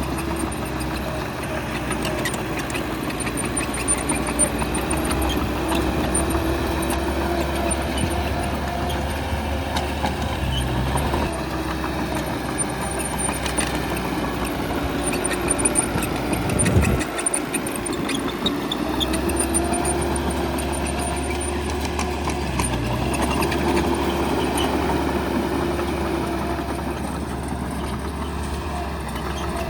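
Heavy diesel engine of a bulldozer running steadily at work, its note rising and falling with load. About seventeen seconds in, the low engine note briefly drops away, then comes back.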